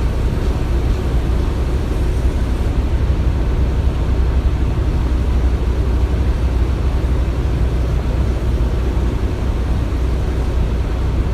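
Steady low rumble of running construction machinery, even throughout with no distinct knocks or strikes.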